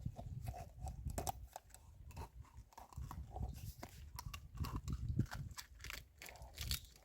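Irregular crunching and clicking of a knife cutting through the bottom of a plastic makgeolli bottle whose contents are partly frozen, over a low rumble of handling noise.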